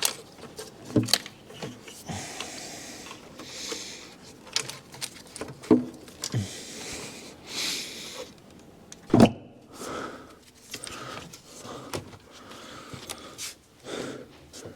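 Tools and engine parts being handled during intake manifold reassembly: scattered clicks and clunks, two short rasping stretches, and one sharper knock about nine seconds in.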